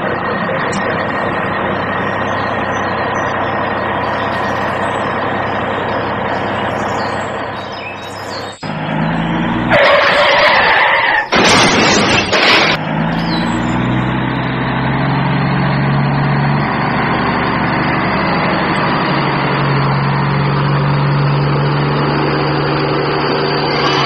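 Steady truck-like engine running, cut off about eight and a half seconds in. Loud splashing of water follows between about ten and thirteen seconds as a toy vehicle plunges into a pool. After that comes a steady low engine hum.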